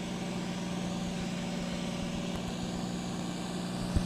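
International Harvester 706 gas tractor's six-cylinder gasoline engine running steadily under load on a tractor pull. There is a brief knock near the end.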